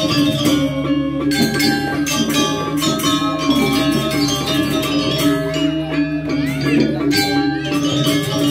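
Balinese gamelan playing: ringing bronze metallophone notes over rapid, dense clashes of small cymbals.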